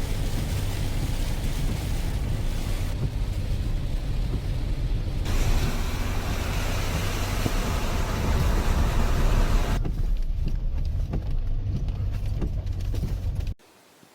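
Heavy monsoon rain and a swollen valley stream rushing, a steady noise with a deep rumble that shifts character several times between shots. It cuts off abruptly near the end, leaving only a faint hiss.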